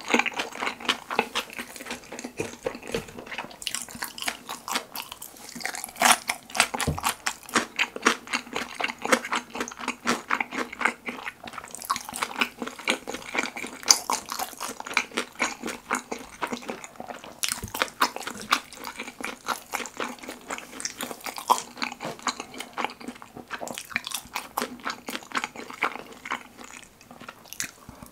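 Close-miked chewing of fried sweet-and-sour pork topped with kimchi and cheese: a continuous, dense run of sharp mouth clicks, smacks and bites.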